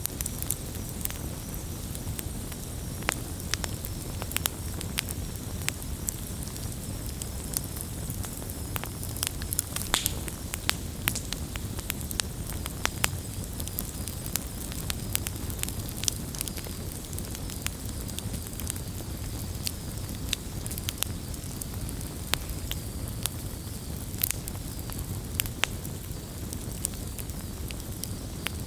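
Wood bonfire burning: a steady low rumble with frequent, irregular sharp crackles and pops of the burning wood.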